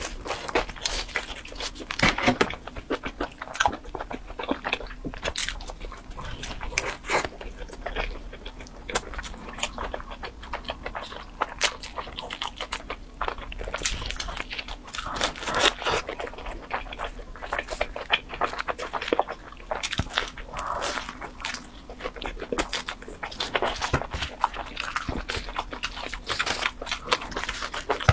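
Close-miked eating of pizza: chewing and biting with irregular wet mouth clicks and smacks, and the odd crunchy bite into the crust.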